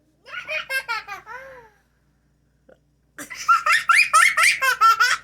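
Toddler laughing: a short run of giggles, then a longer fit of rapid, high-pitched laughter from about three seconds in.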